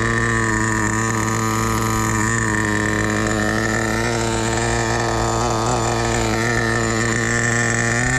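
Hot Bodies .18 two-stroke nitro engine running steadily at a constant speed, its pitch stepping up slightly near the end.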